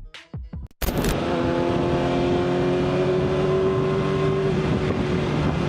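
Motorcycle engine running at a steady cruising speed, with road and wind noise, heard from the rider's onboard camera; it cuts in about a second in.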